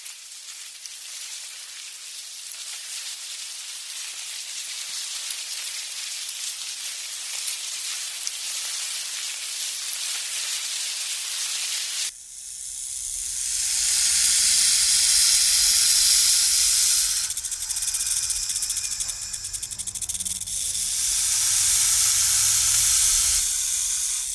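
An animal hissing: a steady hiss that slowly swells. After a cut about halfway through, a louder hiss comes in long breaths with short breaks, over a low hum.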